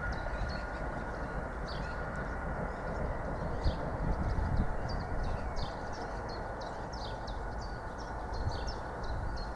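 Distant approaching train giving a steady low rumble with a faint steady whine, while small birds chirp over it in quick, short falling notes several times a second.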